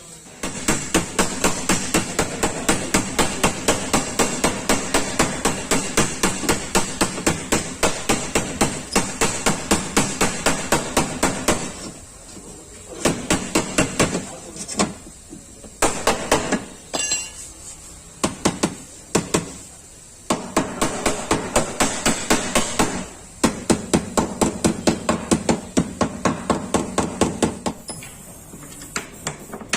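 Hammer tapping on a Volkswagen Polo's sheet-metal body panel to beat out a dent. Quick, even blows, about five a second, come in long runs broken by short pauses.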